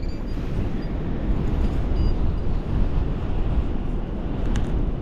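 Gale-force wind buffeting the microphone, a loud, steady low rumble. A short faint high beep sounds about two seconds in, and a small click comes near the end.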